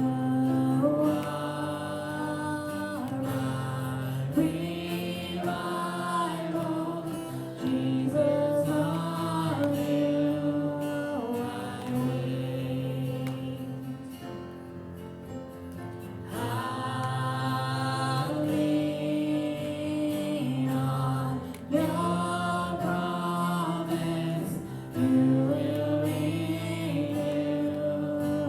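Congregational gospel singing with guitar accompaniment: sung phrases held over a steady bass.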